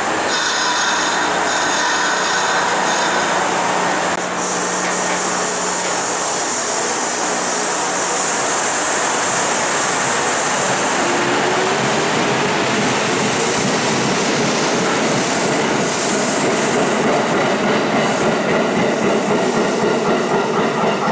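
Kintetsu 2000-series electric train pulling out and running past, its motors and wheels sounding steadily, with a tone rising partway through as it gathers speed. Near the end, regular clacking of the wheels over the rail joints.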